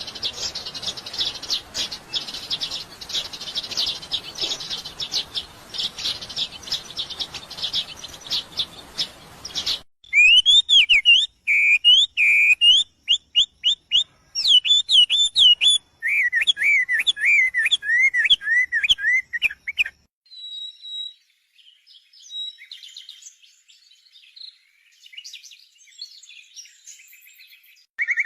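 Songbirds singing and calling in three parts: about ten seconds of fast, dense chirping, then a loud song of clear whistled notes that slide up and down, then fainter high chirps. Each part cuts off suddenly into the next.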